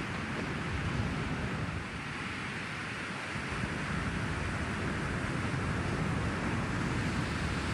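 Steady wash of ocean surf mixed with wind, swelling slightly louder in the second half.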